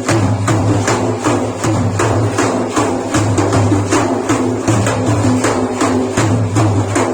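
Frame drums beaten in a steady rhythm, about three strokes a second, under a steady low tone and a wavering melody: the instrumental accompaniment of a Sufi praise chant.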